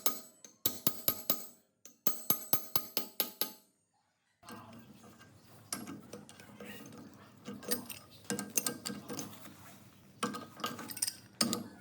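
Quick runs of metallic clinks that ring after each strike, three short runs in the first three seconds or so. After a brief break about four seconds in comes an irregular clatter and rattle of metal parts being handled.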